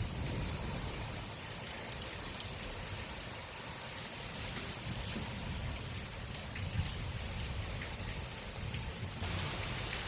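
Heavy rain falling steadily, with a low rumble underneath, growing louder about nine seconds in.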